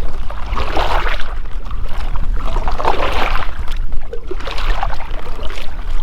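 Kayak paddle strokes swishing through the water, about one every two seconds, over a steady low wind rumble on the microphone.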